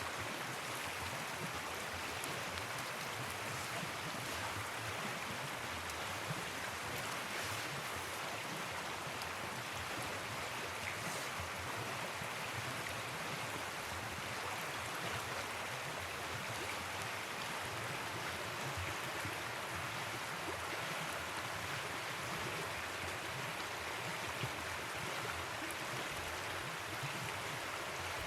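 River water flowing and rushing steadily, an even continuous wash of noise.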